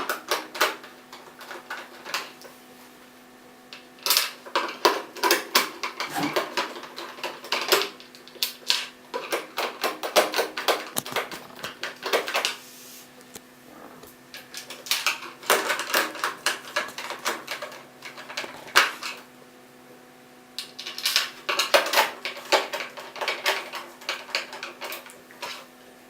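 Screwdriver driving the cover screws into a PTC fan heater's casing, making rapid clicks and rattles. There are four runs of clicking a few seconds each, with short pauses between.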